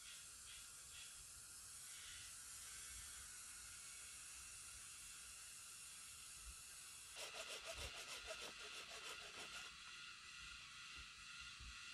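Faint forest ambience: a steady high hiss. About seven seconds in, a rapid pulsing call of roughly eight pulses a second comes in and lasts for about two and a half seconds.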